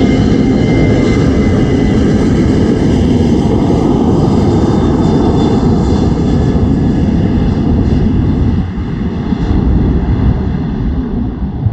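Jet airliner's engines running at takeoff power: a loud, steady rumble with a faint high whine, easing off a little about eight and a half seconds in.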